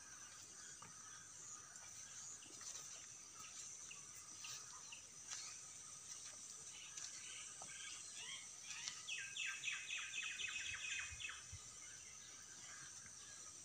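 Faint rural ambience: a steady high insect drone with scattered bird chirps. About nine seconds in, a quick run of around a dozen chirping notes, about five a second, is the loudest sound.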